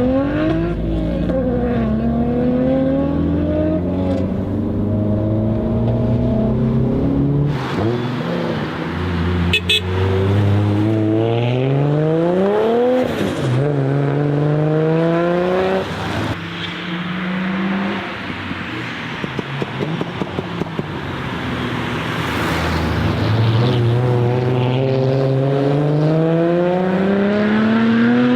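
Turbocharged Nissan RB25DET straight-six in a Skyline R33, revved hard. Its pitch climbs steeply several times and falls back between pulls. A few sharp cracks come from the exhaust partway through.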